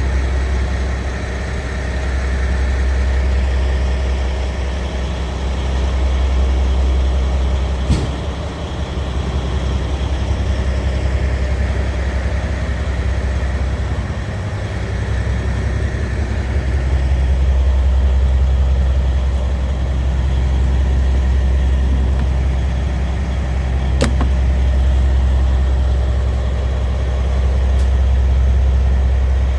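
Scania R tractor unit's diesel engine idling steadily with a deep, even rumble. A sharp click is heard twice along the way.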